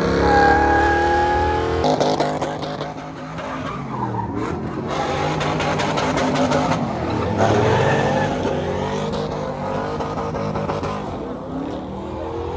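Truck engine revving hard, rising and falling over and over, with tyres squealing: a burnout.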